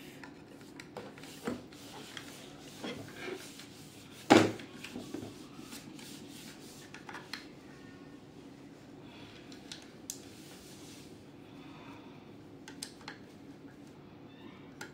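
Small clicks, taps and rubbing of hard plastic and metal parts and screws being handled during a vacuum cleaner repair, with one louder knock about four and a half seconds in.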